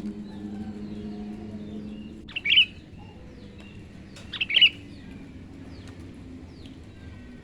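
Sooty-headed bulbul (kutilang) calling: two loud, short bursts of notes about two seconds apart, with fainter chirps in between.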